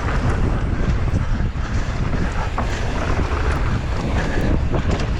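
Wind buffeting the microphone: a steady, loud low rumbling rush with a few faint clicks.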